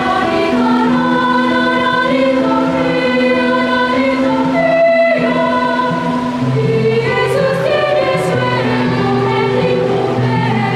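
Children's choir singing a Christmas carol in long held notes, with a brief break about five seconds in and a lower part joining soon after.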